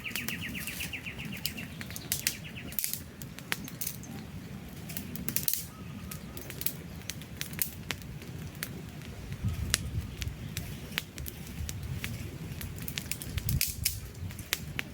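Campfire burning, with a steady low rumble of flame and frequent sharp crackles and pops from the burning wood. During the first three seconds a bird gives a rapid, high trill.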